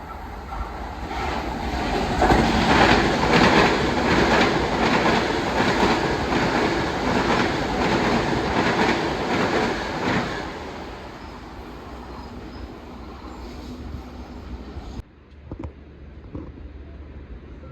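Long Island Rail Road train passing through, its wheels clacking over the rail joints in a steady rhythm of about two knocks a second, then fading away after about ten seconds.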